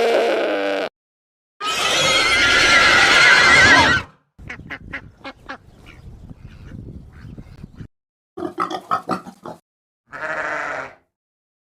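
A series of separate farm animal calls, cut one after another: a short call, then a loud call with a wavering pitch lasting about two seconds, then a run of rapid clicky pulses, and two shorter pulsed calls near the end.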